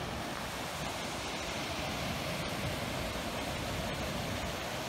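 Steady rush of a large waterfall, an even, unbroken roar of falling water.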